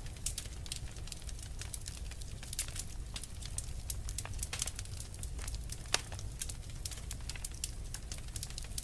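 Wood fire burning in a fireplace: frequent sharp crackles and pops, a few louder snaps, over a low steady rumble of the flames.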